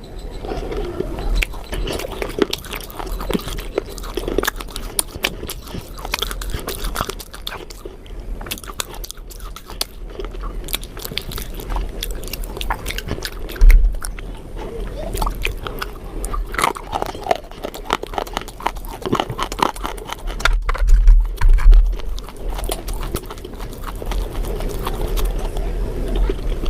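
A person biting and chewing crunchy food close to the microphone: a continuous run of crisp crunches and chewing. Heavy low bumps come about halfway through and again about three-quarters through.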